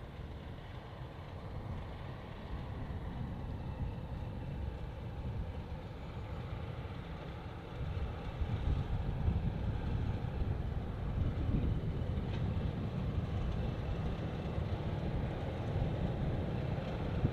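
Class 50 diesel locomotive's English Electric 16-cylinder engine running with a steady low rumble, growing louder about halfway through as it gets nearer or works harder.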